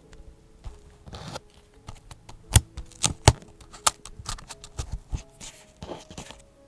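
Paper and stationery handled for journaling: rustling and crinkling with a run of sharp clicks and taps, the loudest a few close together about two and a half to four seconds in.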